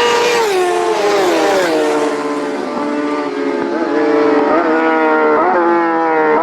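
Road-racing motorcycle engine running hard. Its note falls over the first two seconds, then climbs slowly again, with brief sharp flicks in pitch roughly once a second.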